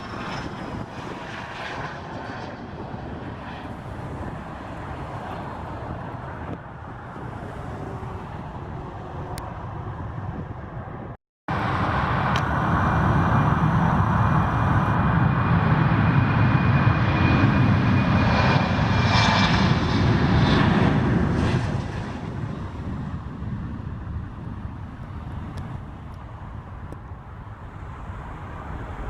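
Jet aircraft engines, a steady rush that drops out abruptly about eleven seconds in. It comes back louder as a plane passes for about ten seconds, with a faint falling whine, then fades.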